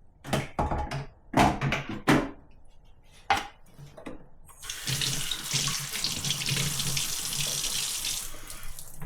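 A few sharp knocks and clunks of handling, then a tap running steadily for about four seconds, filling the coffee machine's water tank with fresh water to rinse out the descaler.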